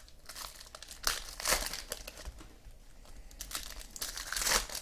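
Trading card pack wrappers being torn open and crinkled by hand, with irregular rustling strongest about a second in and again near the end.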